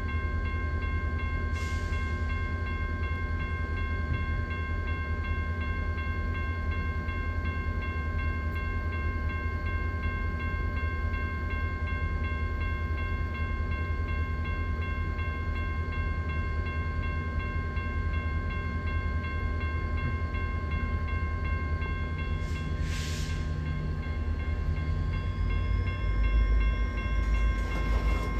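A train rumbling steadily, with a steady whine of several high tones over the deep rumble. There is a short hiss about two-thirds of the way through, and the noise grows near the end.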